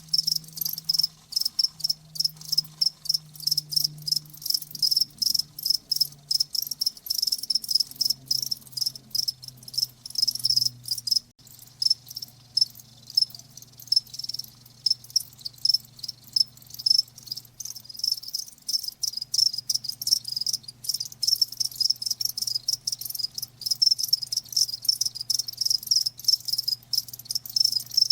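Crickets chirping in a rapid, even pulse of high chirps, several a second, with a faint low hum underneath.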